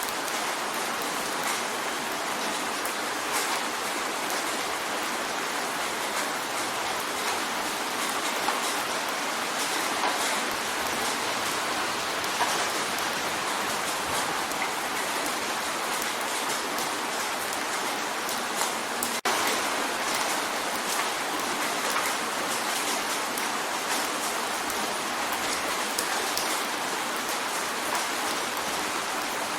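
Steady rain drumming on a window pane: an even hiss of water with many small drop taps scattered through it. There is a momentary dropout about two-thirds of the way through.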